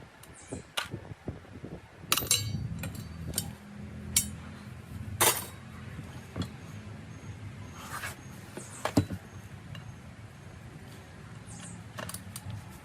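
Sharp metallic clinks and knocks, a dozen or so scattered irregularly, over a low steady hum that starts about two seconds in.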